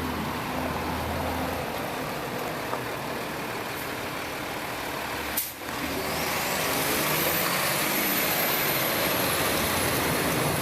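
Snow plow truck engine running with heavy road noise. A brief sharp break comes about halfway, then a high whine rises and holds steady.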